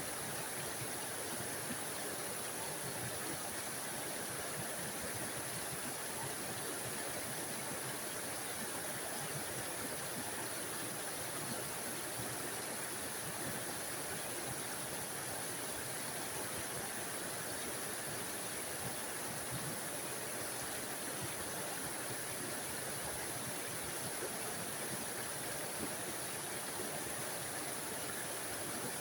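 Small forest waterfall running steadily, an even rushing splash of water with a bright hiss.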